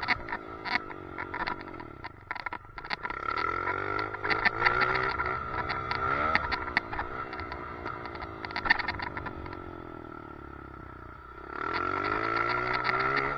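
Dirt bike engine revving up and easing off several times as it is ridden, heard from a helmet chin-mounted camera, with a steady high whine and many rattling clicks: the weird noise from a chin mount that needs fixing.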